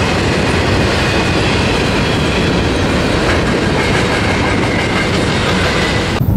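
CSX intermodal freight train rolling past, carrying containers and trailers: a steady rumble of steel wheels on rail with rhythmic clickety-clack over the rail joints. The sound cuts off abruptly near the end.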